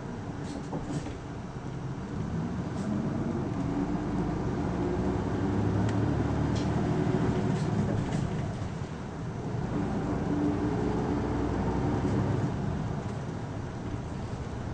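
Isuzu Erga city bus (PKG-LV234L2) diesel engine and drivetrain heard from inside the cabin while driving. It grows louder as the bus accelerates, lets up briefly near nine seconds, pulls again and eases off near the end. Light rattles and clicks from the cabin come through a few times.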